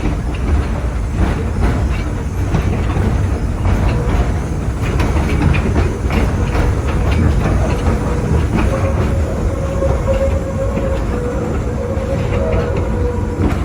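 Passenger train pulled by the steam locomotive Torch Lake rolling along, heard from aboard: a steady low rumble with scattered clicks from the wheels and rail joints. A thin steady wheel squeal comes in about two-thirds through.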